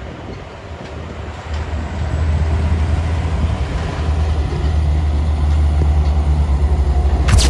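Heavy truck engine, loaded with sugarcane, running hard under load on an uphill climb, a steady low drone that grows louder about two seconds in. A sharp crack sounds just before it cuts off near the end.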